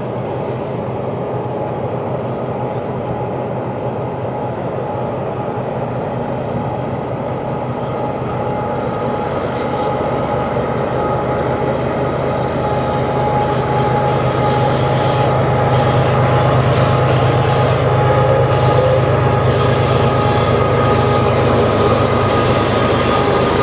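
A CN freight train's lead diesel locomotives, a GE ES44AC with a four-stroke V12 and an EMD SD70M-2 with a two-stroke V16, running as the train approaches. Their steady drone grows gradually louder, with a few steady higher whining tones over it.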